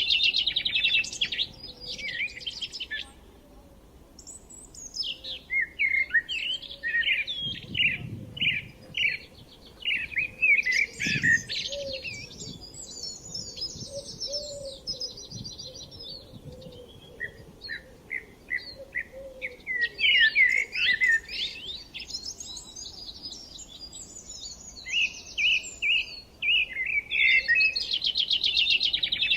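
Several songbirds singing and chirping at once: quick chirps, trills and whistled phrases overlapping, with a brief lull a few seconds in.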